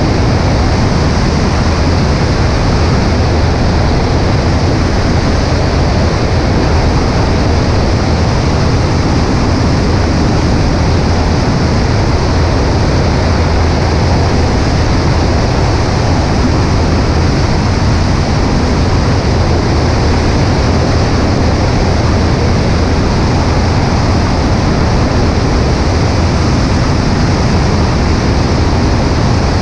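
Cessna 140A light aircraft in cruise: a steady drone of engine and propeller mixed with loud wind rushing over a camera mounted on the right wing. The sound is even and unchanging.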